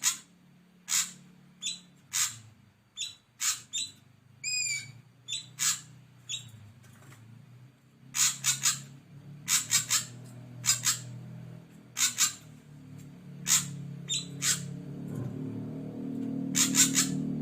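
Ashy drongo calling: a run of short, sharp, high notes at irregular spacing, some in quick pairs or triples, with one clearer whistled note about a quarter of the way in. A low hum runs underneath and grows louder near the end.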